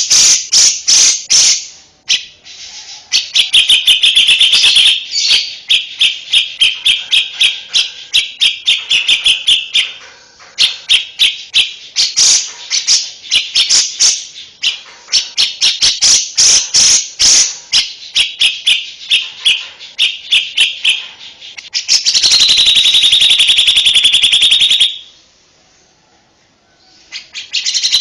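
A small songbird singing loudly in fast runs of sharp, high chirps, several notes a second, broken by short pauses. About two-thirds of the way through it switches to a dense, continuous buzzy trill for about three seconds, then falls quiet briefly before the chirping resumes near the end.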